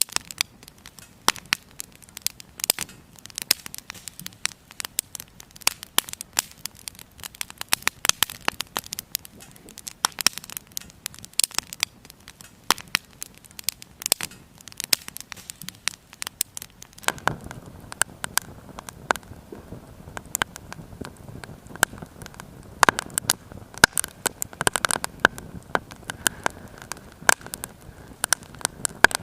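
Wood fire crackling in a small Firebox mini stove, with many sharp pops and snaps. About halfway through, a low steady rushing of flames joins the crackle.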